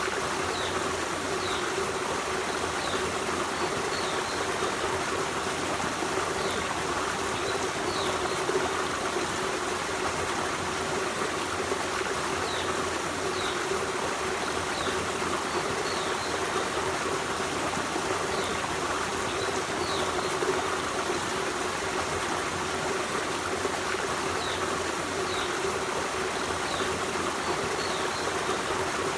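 Forest stream running steadily, a constant wash of flowing water, with faint short high notes scattered through it every second or two.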